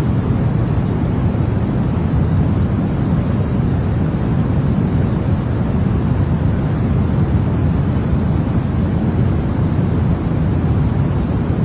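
Continuous white noise for baby sleep: an even, unchanging rush with no rhythm or breaks, weighted heavily toward the low end so it sounds deep and rumbly rather than hissy.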